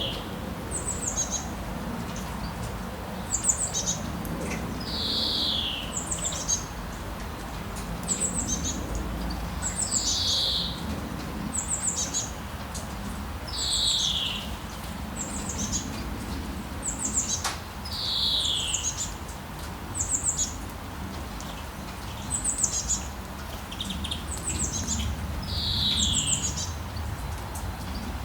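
Birds singing over a steady hiss of rain: a clear downward-sliding call about every four seconds, with quick high chirps in between.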